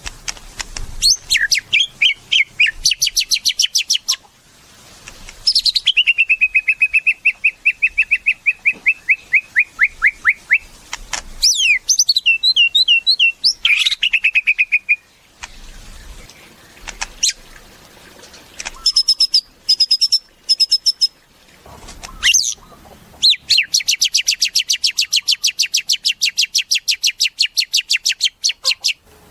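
White-rumped shama (murai batu) singing loudly: phrases of fast repeated notes, some gliding down, broken by short pauses, with a long rapid trill near the end.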